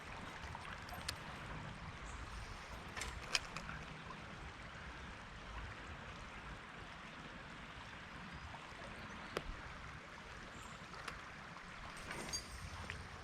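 Soft, steady trickle of flowing river water, with a few faint clicks and light knocks scattered through it, the sharpest a few seconds in.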